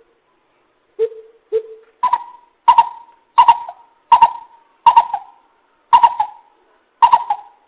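Greater coucal giving its series of deep, hollow hoots. Two lower hoots come first, then a run of about seven higher hoots spaced a little under a second apart.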